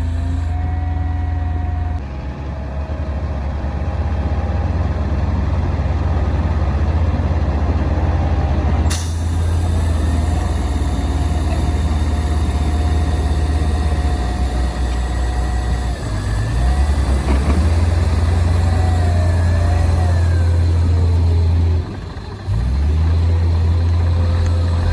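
Komatsu D58P bulldozer's diesel engine running hard under load in a deep, steady drone, with thin whining tones that hold and then slide up and down. There is a sharp click about nine seconds in and a brief dip in the engine near the end.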